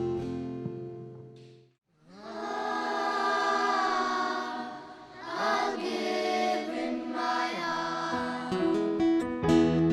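An acoustic guitar chord dies away into a moment of silence, then a choir sings a carol in harmony. Guitar strumming comes back in under the voices near the end.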